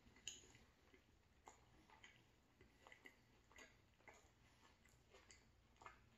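Soft, irregular mouth clicks of a person chewing a beef taco, one or two a second.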